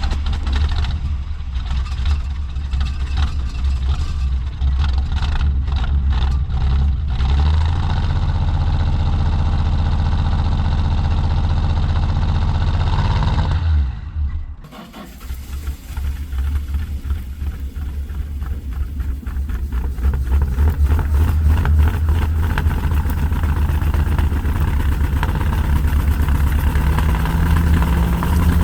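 A carbureted engine in an old truck, running on fuel squirted by hand into the carburetor because the tank is nearly dry. It runs for about half the time, nearly dies, then catches again and runs rough before picking up louder near the end.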